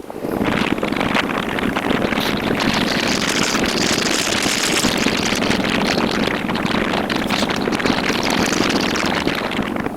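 Motorcycle on the move: a steady rush of wind and road noise over the engine, swelling a little a few seconds in.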